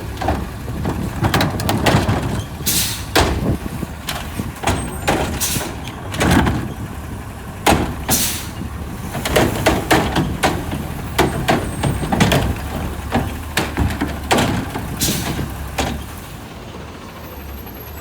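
Garbage truck at work: a long run of bangs and clanks with several hisses of air, settling to the truck's engine running more quietly for the last couple of seconds.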